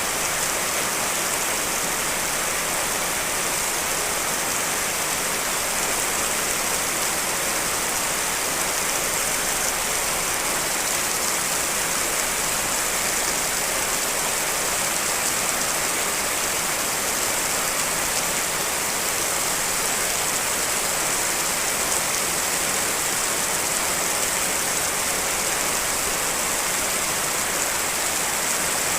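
Steady rain, a layered rain recording making an even hiss with no distinct drops standing out.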